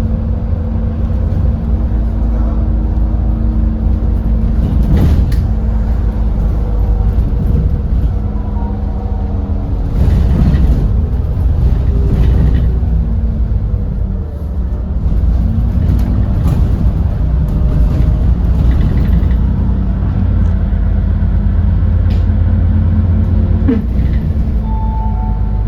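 Edison Motors Smart 110G city bus with a GX12P natural-gas engine, heard from inside the cabin while under way. The engine hum rises and falls in pitch several times as the bus accelerates, eases off and shifts through its ZF automatic gearbox.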